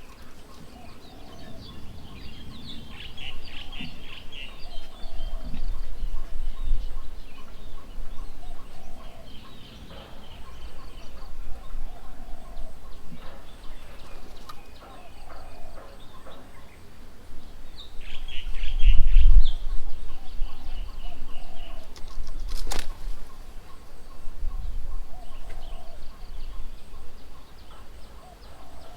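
Several birds calling at a bird table: bursts of rapid, chattering chirps, with a lower call repeating every few seconds. A low rumble swells twice, about a fifth of the way in and again around two-thirds through, and there is a single sharp click shortly after that.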